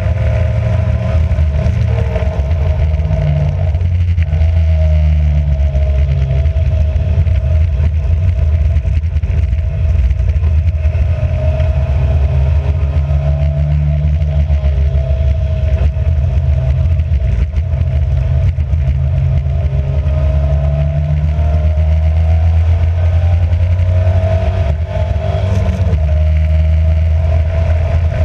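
Alfa Romeo race car's engine running hard and continuously, its pitch rising and falling as the car accelerates and lifts around the circuit.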